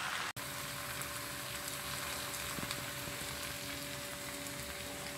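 Stir-fried noodles with beef and vegetables sizzling in a frying pan, a steady frying hiss. A faint steady tone runs underneath, and the sound drops out for an instant near the start.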